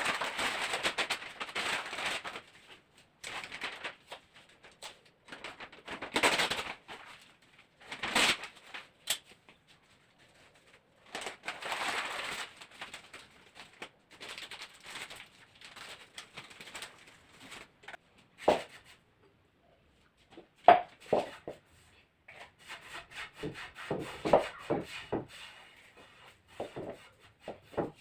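Newspaper rustling and crinkling in repeated bursts as vegetables are wrapped and folded in it, with a few short knocks and clicks of handling in the second half.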